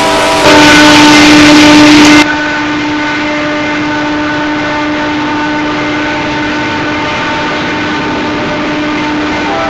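Union Pacific diesel locomotives leading a double-stack freight train down a mountain grade, running steadily with a constant low tone. A much louder, harsher stretch fills the first two seconds, then the sound holds level.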